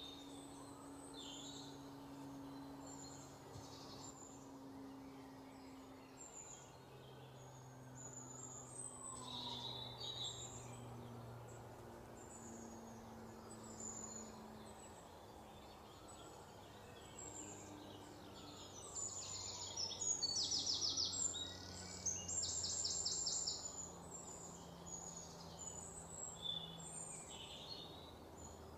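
Birds chirping faintly, short high calls scattered throughout, with a louder rapid trill of evenly spaced notes lasting a few seconds about two-thirds of the way through.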